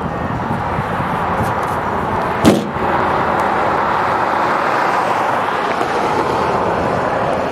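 Vehicle on the move: steady road and wind noise, with a single sharp knock about two and a half seconds in.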